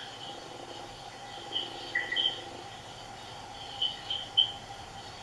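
Short, high bird chirps, singly and in quick pairs, about one and a half to two seconds in and again around four seconds in, over a steady faint hum.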